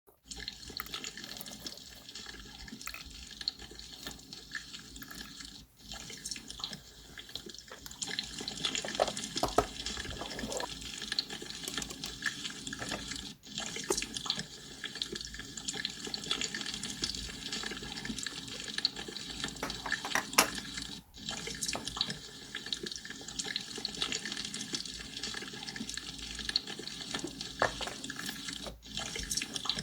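Water bubbling steadily with a dense patter of small pops. It is a short recording looped about every eight seconds, with a brief drop-out at each repeat.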